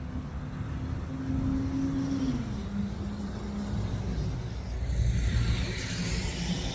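A steady motor-vehicle engine hum that drops a little in pitch about two seconds in, over low rumble, with a louder hiss coming up near the end.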